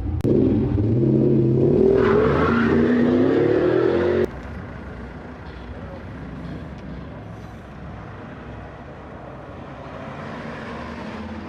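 Classic car engine accelerating, its note rising in pitch for about four seconds. It stops abruptly, leaving a quieter steady background of distant engine and outdoor noise.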